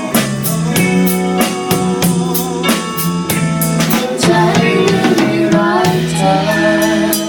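Pop band music with a steady drum-kit beat over sustained chords, the instrumental close of the song; the bass and drums drop away near the end.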